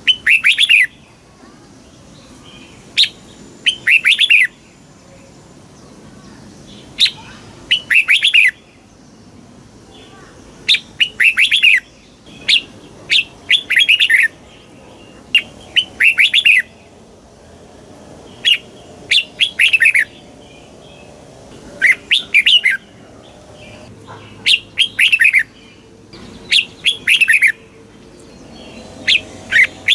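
Red-whiskered bulbul singing: short phrases of quick notes, repeated every two to three seconds, most of them opened by a sharp high note.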